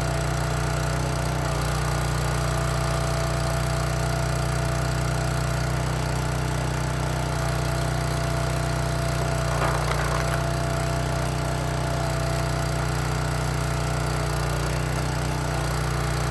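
Engine-driven log splitter running steadily, with a short crackle of wood splitting about ten seconds in.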